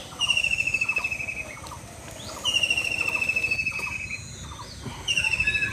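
A bird sings a high, rapidly pulsed trill three times, each lasting about a second or more, with fainter short notes between.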